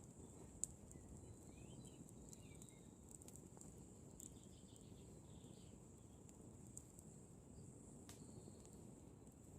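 Wood campfire burning quietly, with a few sharp crackling pops, the loudest about half a second in. Behind it are a faint steady high-pitched whine and a few faint chirps.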